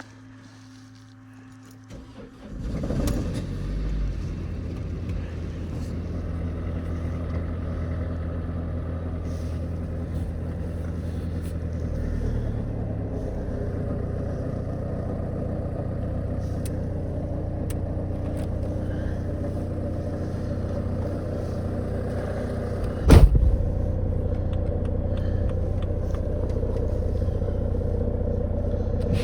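Mercedes-Benz Vito 2.2 CDI four-cylinder diesel starting from cold at −10°C: a short crank about two seconds in, a brief rise in engine speed as it catches, then a steady cold idle. One loud thump about 23 seconds in.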